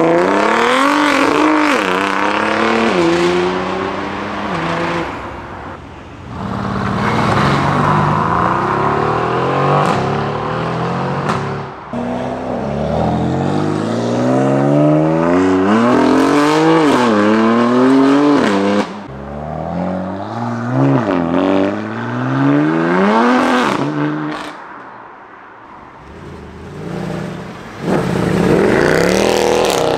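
Performance cars accelerating hard past one after another. Each engine revs up in pitch and drops back at each gear change, in several separate pulls, with a short quieter spell between the last two.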